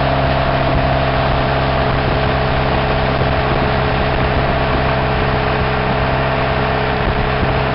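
2002 Pontiac Grand Am's Ecotec four-cylinder engine heard through an exhaust with no catalytic converter and no resonator, running at a steady engine speed, with a constant hiss of noise underneath.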